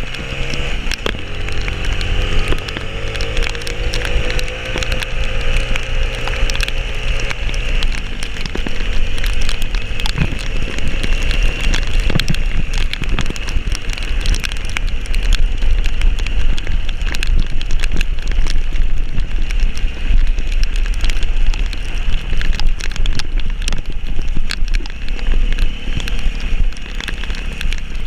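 A vehicle engine pulling under load, its pitch rising over the first few seconds and then holding steady. It runs under a loud rumble of wind noise, with many sharp ticks and knocks throughout.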